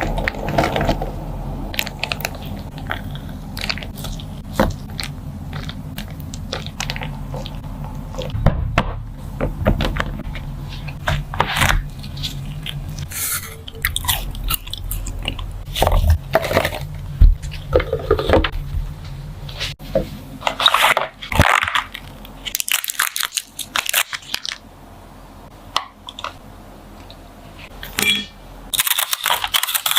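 Crunchy food being bitten and chewed close to the microphone in irregular crunches, over a low steady hum that stops about two-thirds of the way through.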